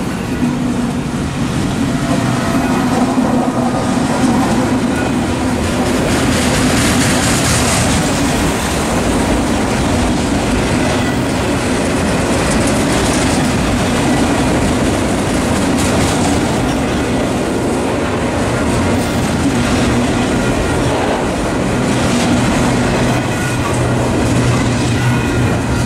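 Union Pacific freight train passing close by: the trailing diesel locomotives, an SD70M and a C44AC, go past at the start, then autorack and double-stack container cars roll by. The wheel-on-rail rumble is loud and steady throughout.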